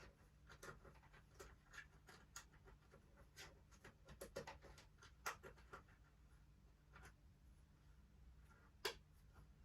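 Faint, irregular clicks and taps of hard plastic toy parts being handled and fitted together, with a couple of sharper clicks about five and nine seconds in.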